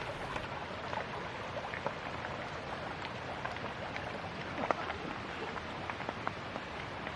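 Steady rush of a mountain valley stream, with scattered light ticks and patters.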